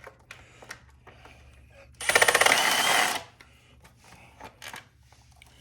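A handheld power tool spinning an 8 mm socket for about a second, a fast, even rattling buzz, with small clicks of tools being handled before and after it.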